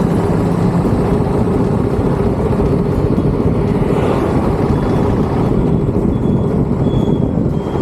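Royal Enfield Bullet 350 motorcycle under way at steady speed: the single-cylinder engine's hum under heavy, even road and wind noise.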